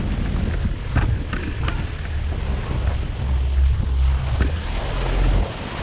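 Wind buffeting the microphone: a loud, uneven low rumble under a steady rushing hiss, with a few faint clicks in the first two seconds.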